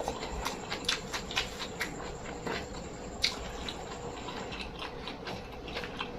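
Close-miked chewing and mouth sounds of a person eating rice with raw vegetables and sambal: irregular wet clicks and smacks, busiest in the first two seconds, with one sharper click about three seconds in, over a faint steady hum.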